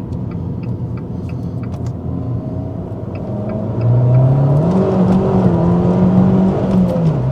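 Turbocharged hot hatch's engine heard from inside the cabin as it accelerates hard. The engine note gets louder about four seconds in, rises, then drops back near the end.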